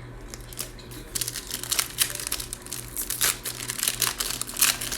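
Plastic wrapper of a Panini Mosaic basketball card pack crinkling and crackling in irregular bursts as it is torn and peeled open by hand. A faint steady low hum runs underneath.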